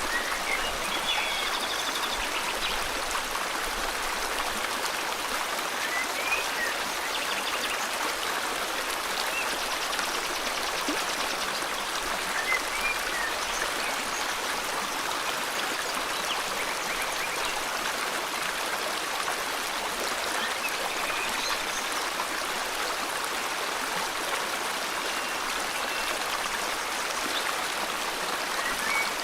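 River water flowing steadily with a constant rushing sound. A few short, faint bird chirps are heard now and then over it.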